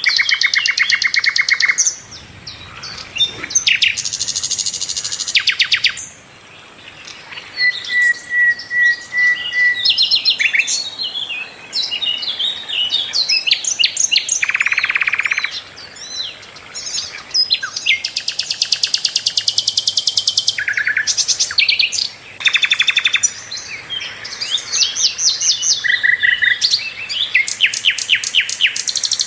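Sikatan londo flycatcher singing a loud, continuous and varied song of fast trills, rapid runs of repeated notes and short whistles, with brief pauses between phrases. It is a masteran recording, played for caged songbirds to learn from.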